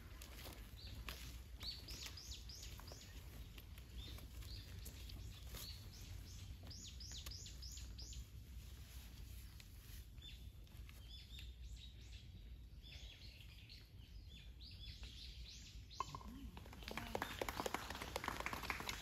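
Birds chirping: many short, high chirps in quick runs, over a low background hum. Near the end a louder, mixed noise joins in.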